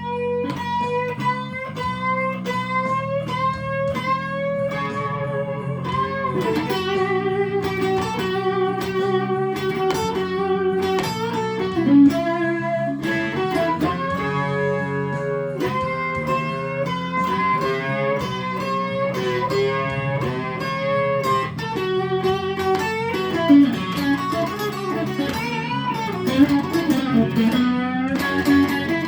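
Electric guitar playing a slow blues solo, with long sustained notes that are bent and shaken with vibrato over a steady low backing.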